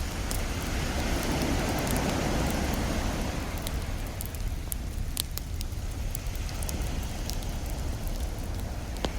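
Wood fire crackling with scattered sharp pops, a stronger pop near the end, over the rushing wash of an ocean wave that swells in the first few seconds and then recedes.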